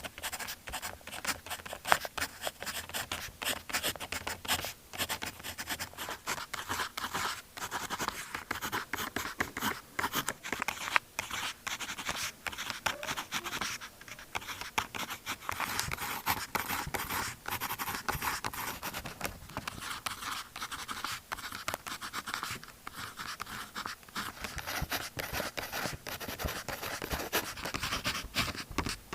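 Pen writing on notebook paper: a continuous run of quick scratching strokes.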